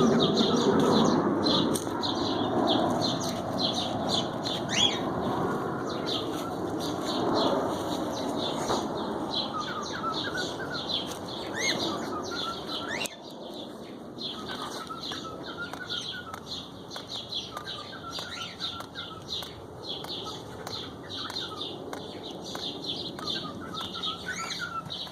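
Pet cockatiels chirping and singing: a continuous stream of rapid high chirps, with short warbling whistled phrases joining in partway through. A broad rushing noise under the birds stops abruptly about halfway.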